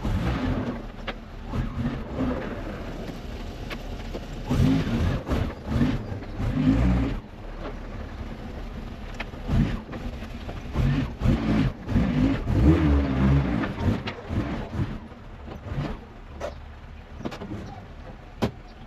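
A vehicle's engine running with road noise, rising in irregular louder surges as it accelerates, with a few sharp clicks near the end.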